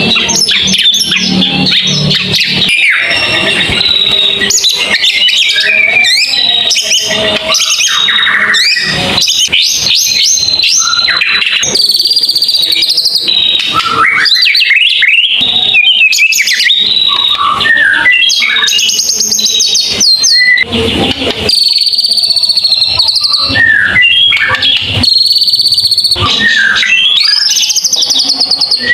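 A songbird singing a long, continuous run of varied clear whistles and rapid rising and falling trills, packed close together with hardly a pause, the kind of long burst songbird keepers call a 'tembakan panjang'.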